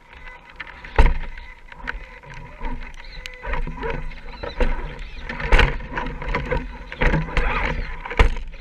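Radio-controlled scale rock crawler working over wet ground and rocks: irregular knocks and scrapes over a steady rough noise, with a faint steady motor whine.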